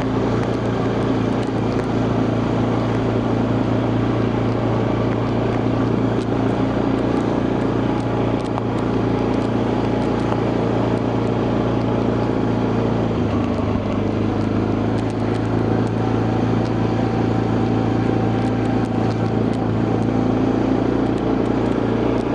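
Quad bike engine running steadily under way. The engine note drops briefly a little past halfway, then settles again.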